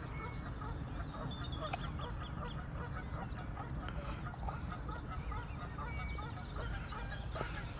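A flock of geese calling: many short honks and cackles overlapping without a break, over a steady low rumble.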